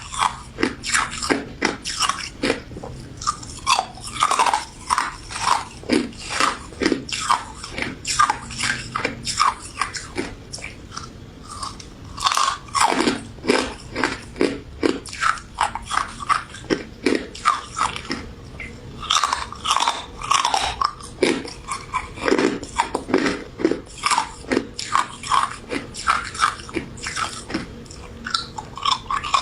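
Close-miked biting and chewing of a crunchy pink crystal ice dessert: a steady run of crisp crunches, about two to three a second, easing briefly about a third of the way in.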